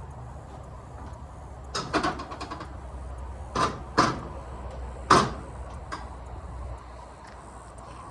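A series of sharp clunks and knocks, a quick cluster about two seconds in, then single knocks, over a low steady hum.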